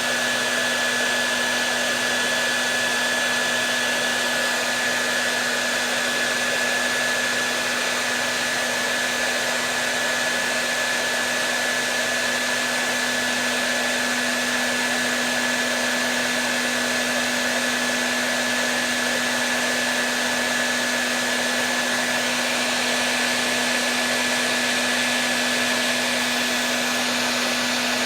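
Hair dryer running steadily: a constant airy rush with a low motor hum and a thin high whine, unchanging throughout.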